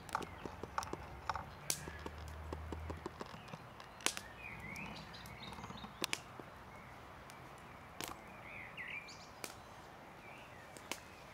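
Wood campfire crackling, with scattered sharp cracks and clicks, while birds chirp now and then, briefly about four seconds in and again about eight to nine seconds in.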